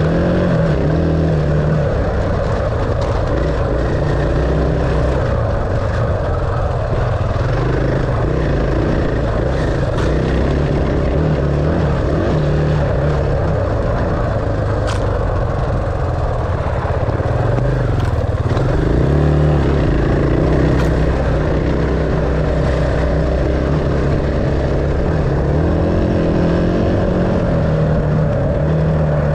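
Dirt bike engine running continuously, its pitch shifting a little as the throttle changes.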